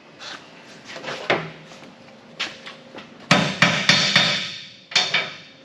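Hammer knocking on the truck's sheet-metal body panel: a couple of separate knocks, then a quick run of about four strikes in the middle with a short metallic ring, and one more knock near the end.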